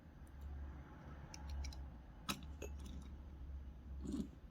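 A few light, sharp clicks and taps of a small die-cast toy car being handled, over a low steady hum.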